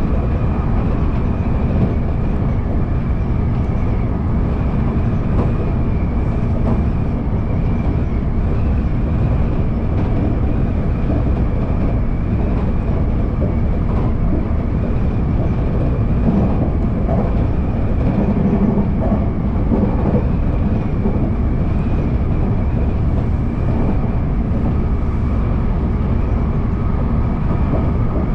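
Electric commuter train running along the line, heard from inside the front of the leading car: a steady, loud running rumble with a faint, constant high tone above it.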